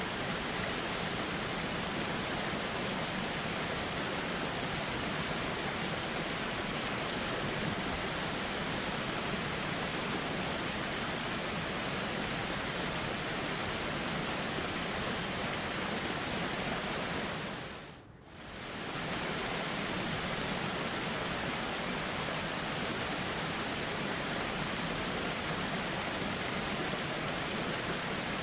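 River water flowing in a steady, even rush. About two-thirds of the way in it briefly fades almost away and swells back.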